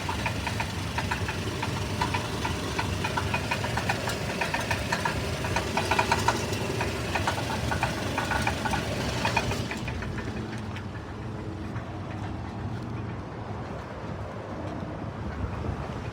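1997 Toyota Tacoma engine running with a fast, repeated knocking rattle that stops about two-thirds of the way through, leaving a quieter, steadier engine sound. The owner is unsure whether the noise is engine knock or a bad catalytic converter.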